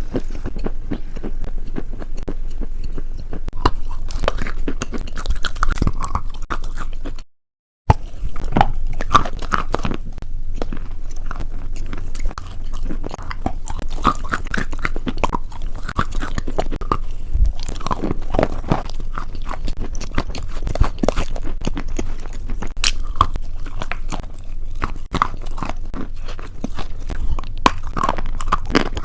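Close-miked crunching and chewing of a crunchy food, a dense, irregular crackle of bites and chews. The sound cuts out completely for about half a second a little over seven seconds in.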